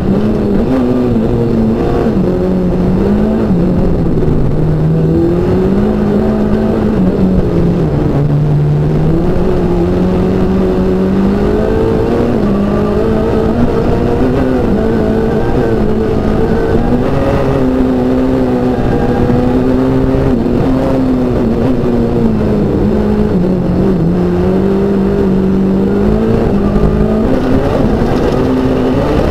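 Racing car engine heard from inside the cockpit, held in second gear, its pitch rising and falling with the throttle; it dips lowest about a third of the way in, then climbs again.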